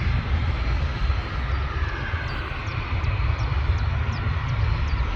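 Turboprop airliner's engines at full takeoff power, a steady engine noise during the takeoff roll. Small birds chirp over it from about halfway through.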